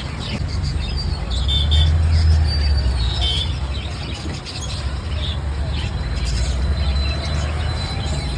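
Low traffic rumble from passing vehicles, with short high-pitched bird chirps and squeals over it.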